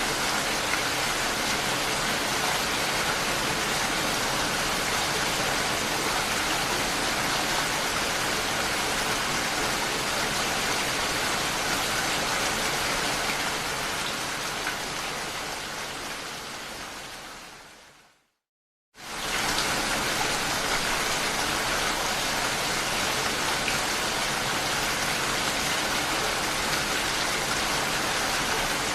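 Steady, even rain. About halfway through it fades away over a few seconds into a second of silence, then comes back suddenly at full strength, like a looped recording restarting.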